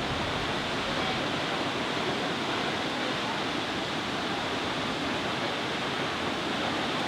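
Steady rushing roar of Nachi Falls, a waterfall with a 133-metre drop, an even wash of falling water with no breaks.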